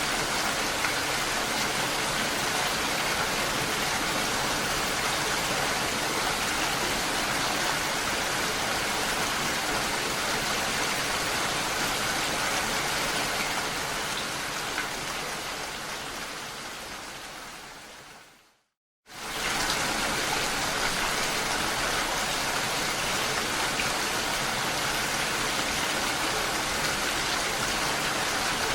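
Steady rain falling, a dense even hiss. About two-thirds of the way through it fades out over a few seconds to a brief moment of silence, then comes straight back at full strength, the seam of a looped recording.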